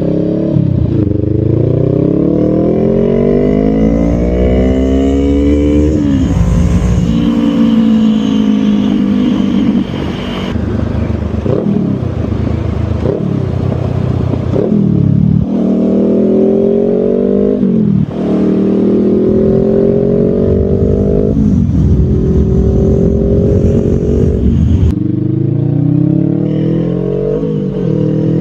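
Honda Rebel 500's parallel-twin engine accelerating through the gears under load. Its pitch climbs steadily, then drops sharply at each gear change, with several shifts in a row.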